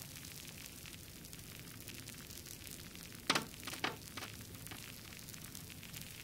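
Wood fire crackling in a fireplace: a steady hiss with small scattered pops, and a quick cluster of three or four louder, sharper pops a little past halfway.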